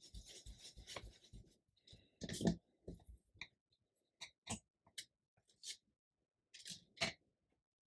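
Stencilling ink dabbed and rubbed onto paper through a stencil: a soft brushing rub at first, then a scatter of light taps and scuffs on the paper and table.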